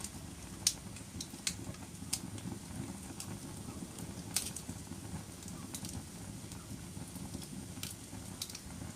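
Wood fire burning in a fireplace: irregular sharp crackles and pops, several a few seconds apart, over a steady low rumble of the flames.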